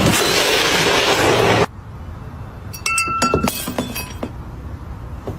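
A loud rushing noise that cuts off abruptly, then a few light clinks, two of them ringing briefly.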